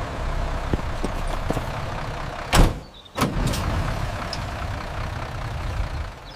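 School bus engine rumbling low and steady, with a loud short thud about two and a half seconds in and a second sharp knock just after.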